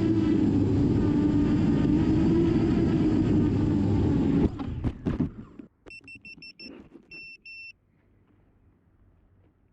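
Small camera drone's propellers whirring steadily, then cutting out about four and a half seconds in as the motors stop. A few clicks follow, then two quick runs of short, high electronic beeps.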